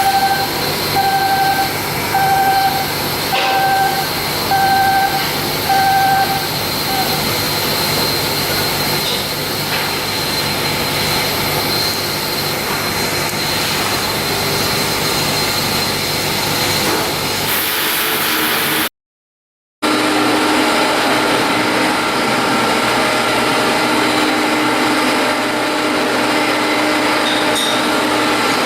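Steady shipyard machinery noise. For the first several seconds a warning beeper sounds about once a second. After a brief cut, a different steady machine hum follows with a held tone.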